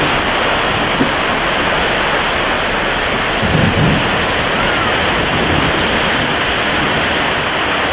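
Heavy rain falling steadily in a dense, even hiss, with a brief low rumble about three and a half seconds in.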